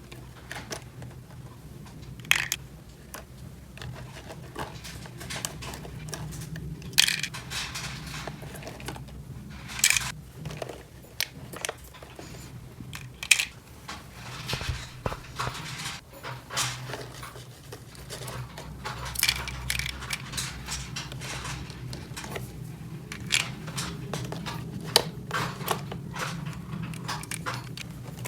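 Small plastic toy pieces being handled, with irregular clicks and clacks as parts are set down and fitted together, over a steady low hum.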